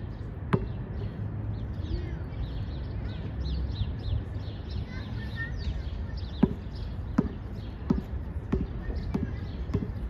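Basketball bouncing on the court: one bounce near the start, then steady dribbling from about six seconds in, about three bounces every two seconds. Birds chirp rapidly throughout, and wind rumbles on the microphone.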